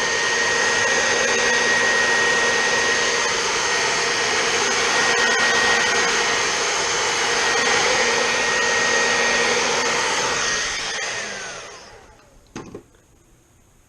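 Handheld hot-air blower running steadily, warming a vinyl phone skin to soften it before it is pressed on. Its fan whine rises as it comes on and falls away as it is switched off about eleven seconds in, followed by a short knock.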